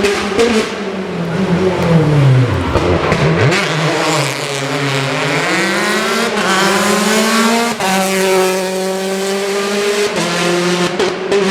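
Citroën DS3 R5 rally car's turbocharged four-cylinder engine. Its revs fall over the first few seconds, then climb steadily, drop sharply on a gear change about eight seconds in, and hold fairly steady after that.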